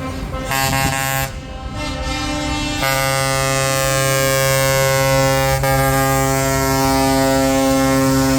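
Truck air horns sounding in chords, a short blast about half a second in, then a long held blast from about three seconds on, over the rumble of passing truck engines.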